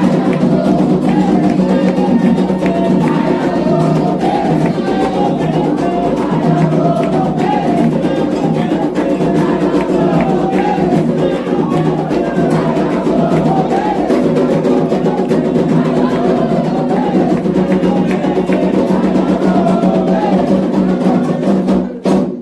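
Candomblé ritual music: hand drums (atabaques) beating a steady rhythm under a group singing a chant, cutting off abruptly near the end.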